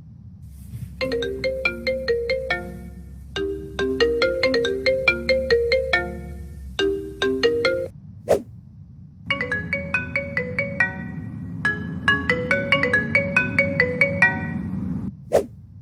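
iPhone ringtones playing one after another: a short marimba-like melody repeated in phrases, a sharp click about eight seconds in, then a different, higher-pitched chiming ringtone that stops with another click near the end.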